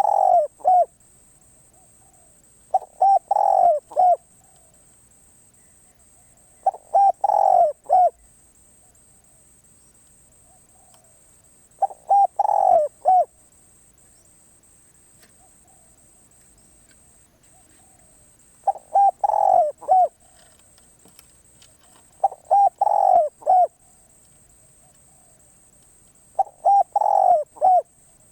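Spotted dove cooing: seven short phrases of a few notes each, one every three to five seconds.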